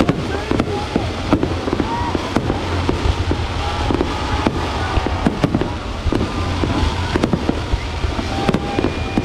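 Fireworks display going off, with many sharp bangs in quick, irregular succession over a steady low rumble.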